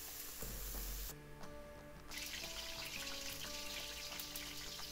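Chopped onion and tomato sizzling in hot oil in a frying pan, under soft background music with held notes. The sizzle drops out for about a second near the start, then comes back.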